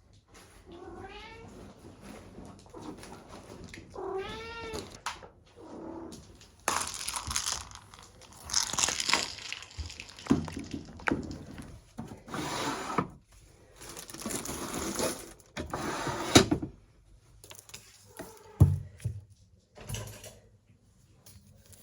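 A domestic cat meows twice in the first few seconds, each meow rising and falling in pitch. This is followed by a long run of irregular rustling, handling noises and, near the end, a couple of short knocks.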